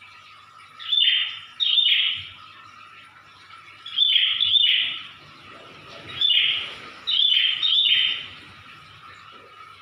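Prinia (prenjak) calling loudly in the 'ngedor' manner: short calls about half a second long, mostly in pairs, about six in all, over a faint steady hum.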